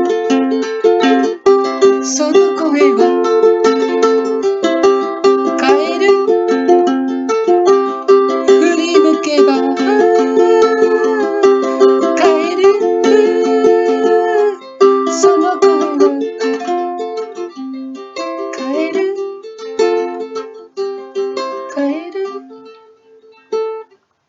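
Ukulele strumming chords as a song accompaniment. The playing thins out and gets quieter over the last few seconds, then ends with a final chord just before the end.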